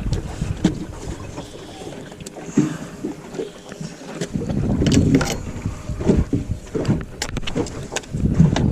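Scattered knocks and clatter of handling in a small fishing boat, with gusts of wind on the microphone swelling up about halfway through and again near the end.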